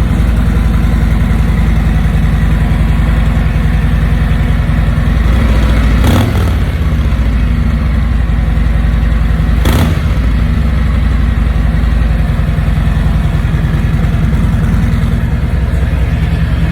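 2021 Harley-Davidson Street Glide Special's Milwaukee-Eight 114 V-twin idling on its stock exhaust. It is blipped briefly twice, about six and ten seconds in.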